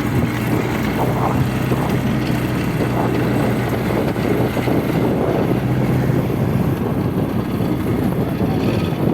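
Bobcat skid-steer loader's engine running steadily, a continuous low hum with no let-up.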